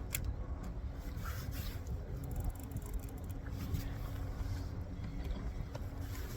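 Small fishing boat's motor running steadily with a constant hum, under low wind rumble on the microphone.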